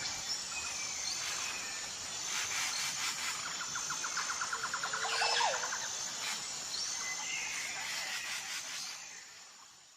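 A sparrow chirping in short calls, with a fast rattling trill a little before the middle, over a steady high-pitched insect trilling. The sound fades out near the end.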